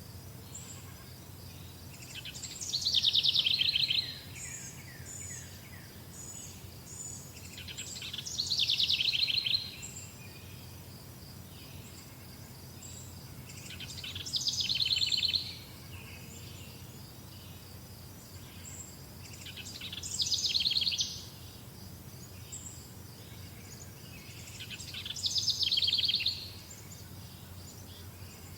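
A songbird sings the same short, fast trilled phrase five times, about every six seconds, each phrase falling in pitch. Other birds chirp faintly and steadily behind it, over a low hum.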